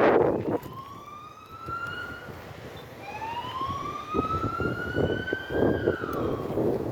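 A siren wailing: a short rising wail, then a longer one that climbs and falls away near the end. Wind gusts buffet the microphone at the start and again about four seconds in.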